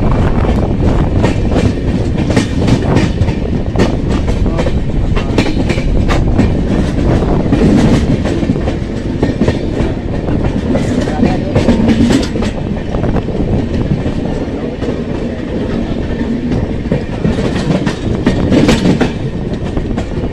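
Express train coaches rolling over the track as the train pulls out of the station, heard from an open coach doorway: a steady wheel rumble with irregular clicks and clatter as the wheels cross rail joints and points.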